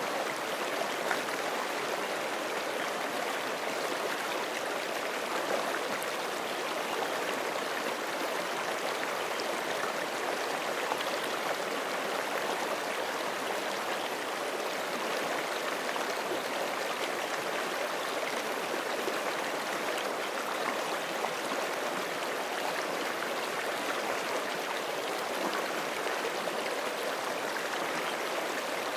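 A forest creek rushing and splashing over rocks, a steady, even water noise with small splashes and gurgles throughout.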